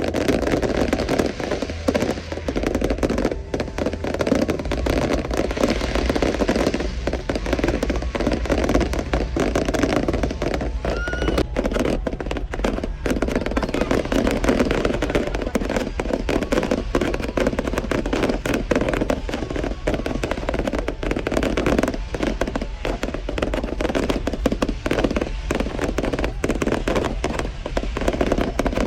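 Fireworks going off continuously: a dense, irregular run of sharp pops and bangs over a steady background din.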